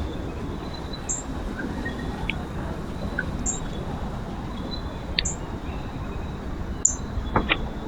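Steady low outdoor rumble with a few short, sharp bird call notes scattered through it, two of them close together near the end, and a faint high tick repeating about every two seconds.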